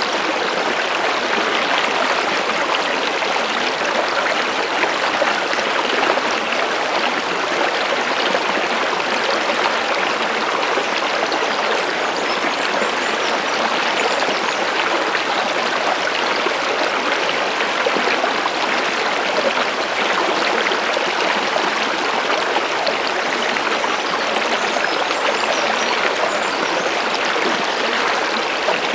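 Running water of a stream, flowing and splashing steadily at an even level.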